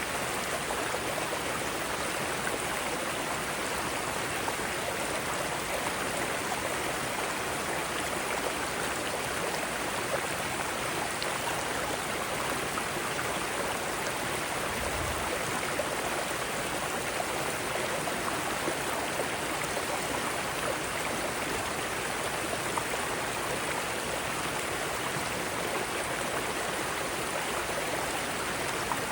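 Mountain stream rushing steadily over rocks, an even, constant water noise. A brief low thud about halfway through.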